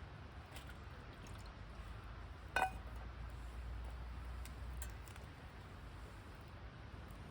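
A single clink of camp cookware, a sharp knock with a brief ring, about two and a half seconds in, over a low steady background with a few faint ticks.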